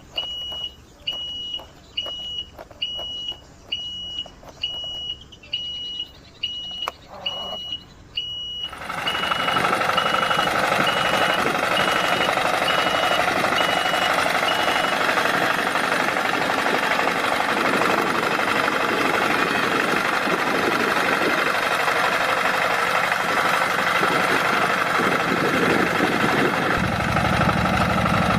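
A vehicle's reversing alarm beeping steadily, about three beeps every two seconds. About a third of the way in, a heavy engine comes in loud and steady and drowns the beeps, which fade out about halfway. Near the end a low steady hum joins the engine.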